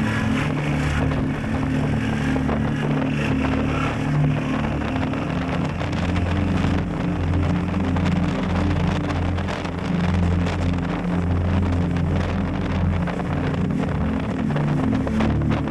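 Heavy wind noise buffeting the action camera's microphone at riding speed, rising and falling unevenly, over the steady running of a Yamaha Tracer 7 GT's 689 cc parallel-twin engine.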